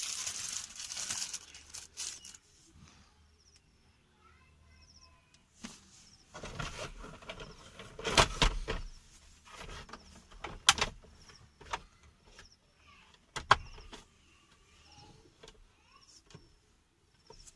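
Handling noises of a plastic armrest being screwed into place: rustling at first, then scattered clicks and three sharp knocks in the second half.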